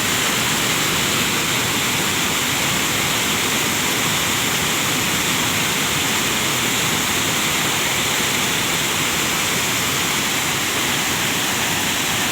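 Steady, loud rush of a lahar, a rain-triggered volcanic mudflow flood, pouring down the river channel.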